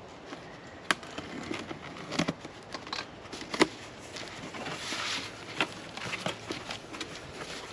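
Packaging being handled and unwrapped: crinkling plastic with scattered sharp clicks and taps.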